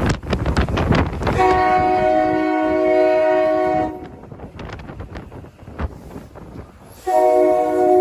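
SEPTA Regional Rail train's air horn sounding a chord of several notes in two long blasts. The first lasts about two and a half seconds; the second starts near the end. This is the opening of a grade-crossing horn signal.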